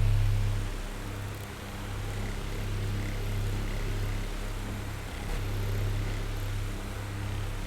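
Electric oscillating fan running: a steady motor hum under the hiss of moving air, dropping in level about a second in and swelling again near the end.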